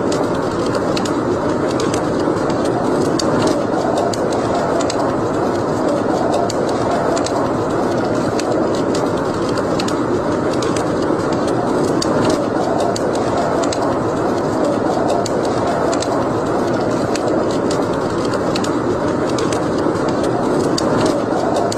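Wood fire burning in a fireplace: a steady rushing noise with frequent small, sharp crackles and pops throughout.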